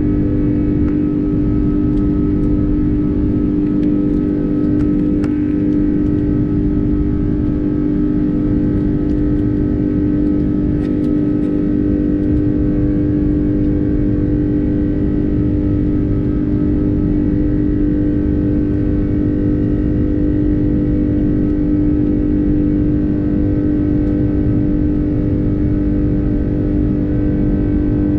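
Airbus A330's Rolls-Royce Trent 700 turbofans heard from inside the passenger cabin: a steady engine drone with a strong hum over a dense low rumble, unchanging in pitch and level.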